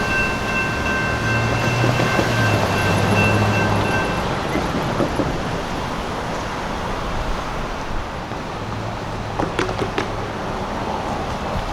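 Freight train rolling through a grade crossing with a steady rumble of wheels on rail. A steady high ringing tone stops about four seconds in, and a few sharp clicks come near the end.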